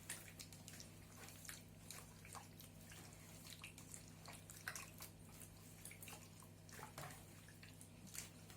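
Faint, irregular wet squelches and clicks of pork being mixed by hand in a kefir marinade, over a steady low hum.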